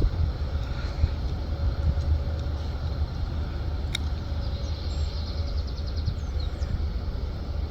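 Airbus A320's jet engines as a steady low rumble with a faint steady hum, with a brief run of high chirps about five seconds in.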